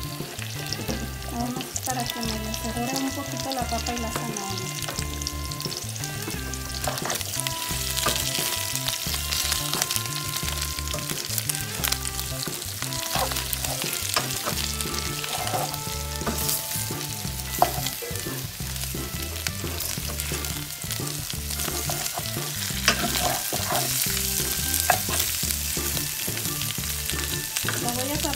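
Pork, potato and carrot chunks sizzling as they fry in oil in a stainless steel skillet, with scattered clicks of a utensil stirring against the pan. Background music with a steady beat runs underneath.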